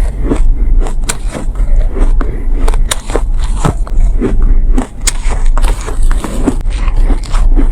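Close-miked bites and chewing of refrozen soft ice, a steady run of gritty, sandy crunches with sharp cracks every half second or so.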